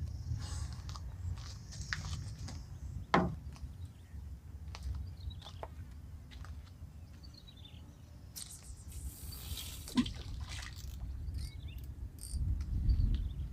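Outdoor ambience: a steady low wind rumble on the microphone, with scattered sharp clicks and knocks, the loudest about three seconds and ten seconds in, a brief hiss near the middle, and faint high chirps.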